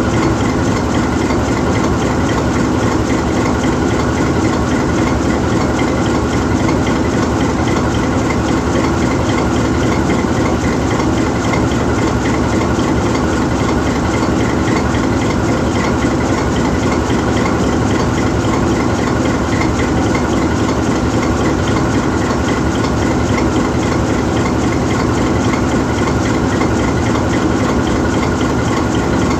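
GE U20C diesel-electric locomotive's diesel engine idling steadily while the locomotive stands still.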